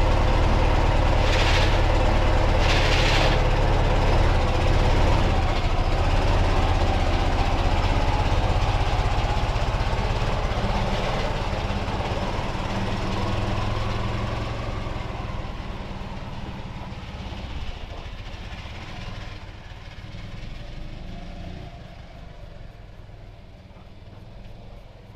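Ural motorcycle's flat-twin engine running steadily, with two short hissing bursts a few seconds in; the sound grows steadily fainter through the second half.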